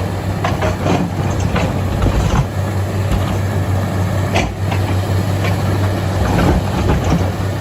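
Bulldozer's heavy diesel engine running steadily, with scattered knocks over its hum.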